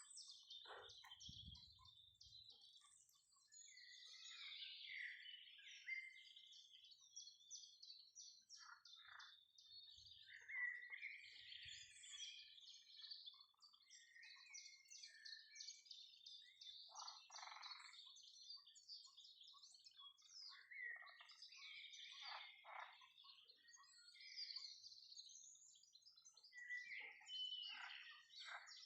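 Faint, continuous chorus of animal calls, frog-like croaking and bird chirps, with louder single calls standing out here and there.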